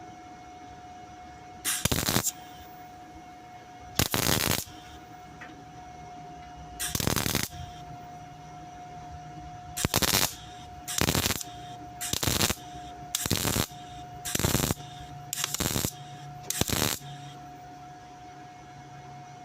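Welding arc crackling in ten short bursts on sheet-steel car bodywork: three spaced a few seconds apart, then seven in quick succession about one a second, as short stitch welds are laid between the tacks. A faint steady tone runs underneath.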